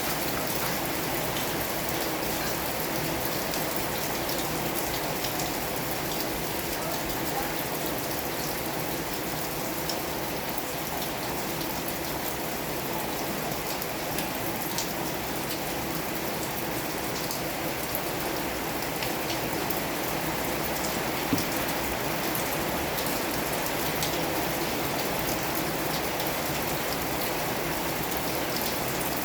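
Steady rain falling, with scattered drops ticking on a surface and one brief click about 21 seconds in.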